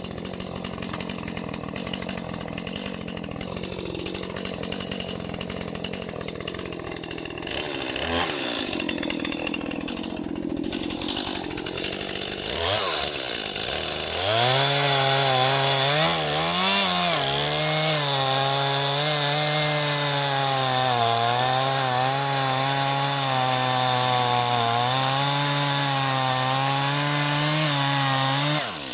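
Chainsaw cutting into an oak log. It runs quieter and uneven for the first dozen seconds, then revs up about 14 seconds in and holds a steady high note under load, dipping briefly right at the end.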